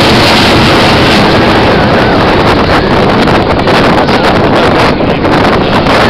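F-16 fighter jet's engine heard during a flying display: a loud, steady rushing noise that nearly swamps the microphone, easing a little near the end.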